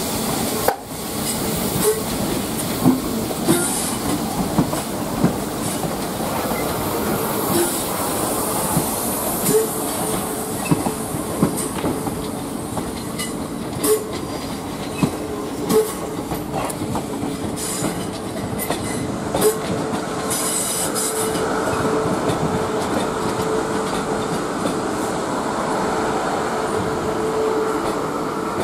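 South Western Railway Class 442 electric multiple unit rolling slowly over pointwork, its wheels clicking irregularly over rail joints and crossings, with brief high wheel squeals. A steady hum grows in the last third.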